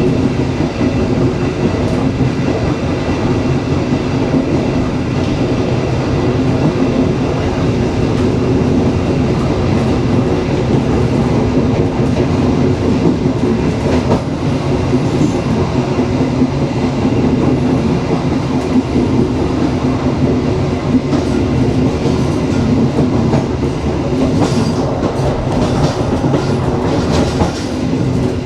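Passenger train running along the track: a steady, loud rumble of wheels on rails with some clicking near the end.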